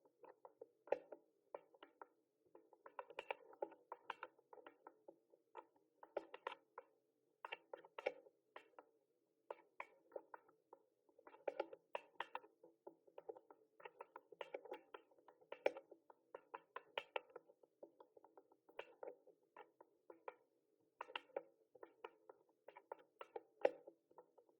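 Mechanical keyboard being typed on: quick irregular runs of key clicks with short pauses between bursts, faint throughout.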